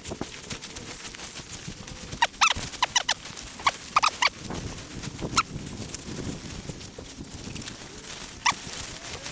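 A hunting dog whimpering in short, high squeaky whines, several in quick succession over a few seconds and one more near the end, over the crunch of footsteps through field cover.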